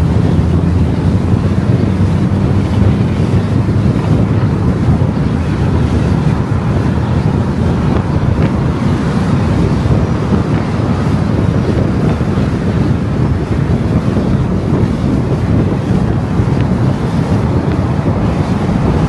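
Car driving on the road: a steady low rumble of tyre and wind noise.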